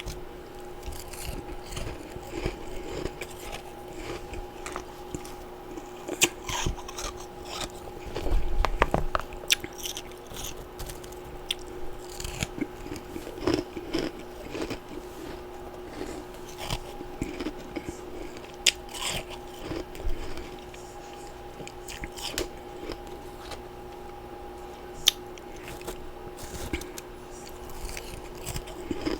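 Someone biting and chewing humidifier-freezer frost and ice chunks: irregular crisp crunches, with a denser, louder run of crunching about eight seconds in. A faint steady hum runs underneath.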